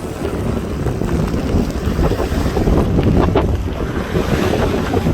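Storm wind buffeting the microphone aboard a sailboat, with heavy rain and waves splashing around the boat.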